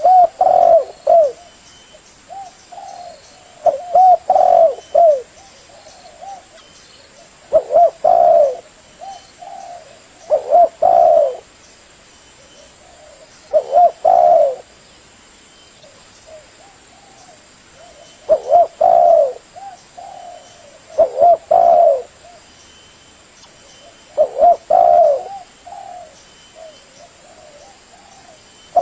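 Spotted dove (tekukur) cooing: loud phrases of several coo notes every three to four seconds, with softer single coos between them.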